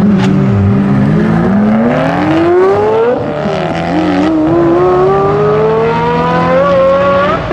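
Pagani Zonda Cinque's V12 and Koenigsegg Agera's twin-turbo V8 accelerating hard at full throttle from a drag-race launch. The engine pitch climbs steadily and drops at gear changes about three seconds in and again near the end.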